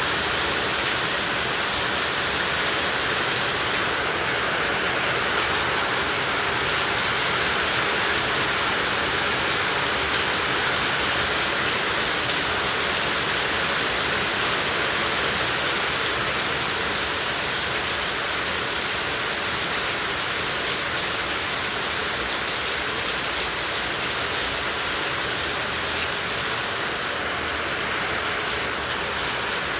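Heavy tropical rain pouring down in a steady, dense hiss, with fine raindrop patter on surfaces. The sound eases slightly about four seconds in and again near the end.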